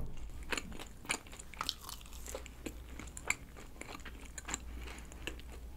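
Close-miked chewing of a deep-fried, croquette-style bun with a crisp outer crust and a chewy rice-flour bread layer: irregular small crunches and wet mouth clicks.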